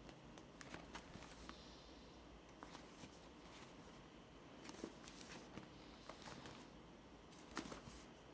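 Faint handling of a small product box and its packaging during unboxing: scattered soft clicks, taps and brief rustles over a quiet room hiss.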